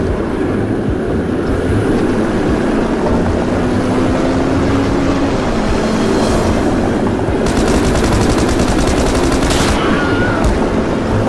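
Steady rumble and clatter of a train running on rails. About seven and a half seconds in, a burst of rapid automatic gunfire lasts about two seconds.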